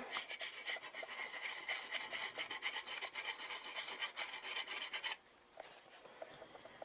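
Raised seam on a metal motorcycle silencer being rubbed flat by hand with quick back-and-forth abrasive strokes, stopping abruptly about five seconds in.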